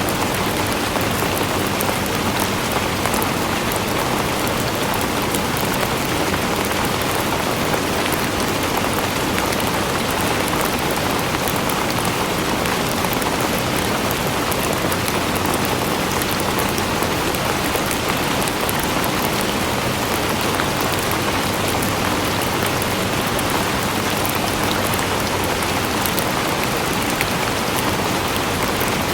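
Steady rain falling on a surface, an even hiss with fine drop patter that doesn't change.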